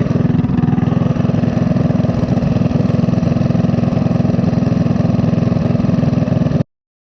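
Small single-cylinder minibike engine running steadily, cutting off suddenly near the end.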